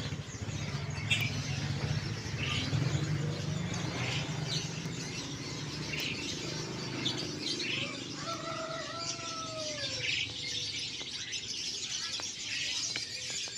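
Many caged songbirds at a bird market chirping and calling together, with a couple of falling whistles around eight to ten seconds in, over a low steady background rumble.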